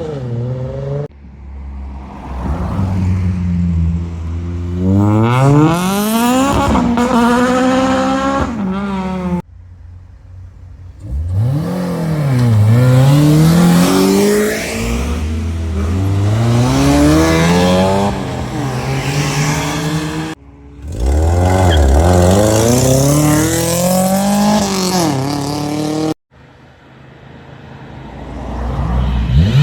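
Modified cars accelerating away hard, their engine notes climbing steeply through the revs, heard in several short clips that cut off abruptly.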